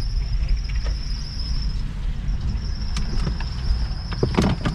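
Car engine running at idle, a steady low rumble heard from inside the cabin as the car creeps forward, with a thin steady high whine over it. A few light clicks, and a louder thump near the end.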